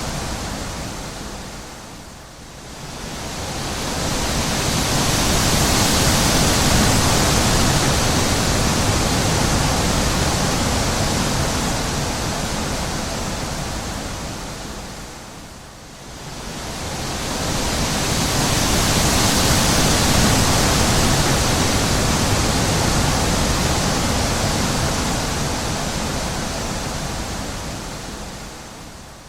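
Wind blowing in long gusts, a steady rushing that swells and dies down about every 13 to 14 seconds.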